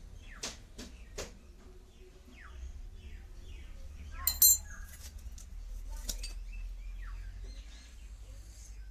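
Light metallic taps and clicks from hand-work on a sewing machine, with two sharp ringing metal clinks about four and a half seconds in. Birds chirp in the background with short falling calls.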